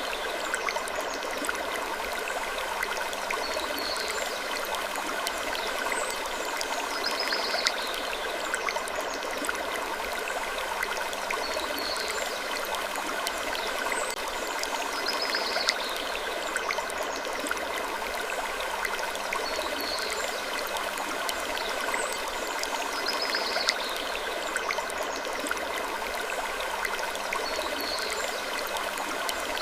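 Looped sleep ambience of wood creaking over a steady hiss like running water, with a short high creak recurring about every two seconds.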